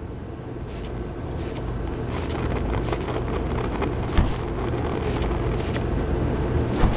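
Gasoline being sprayed from a spray bottle onto the hot heating element of a hybrid electric clothes dryer: a series of short hissing squirts, about one a second, over a steady low mechanical hum.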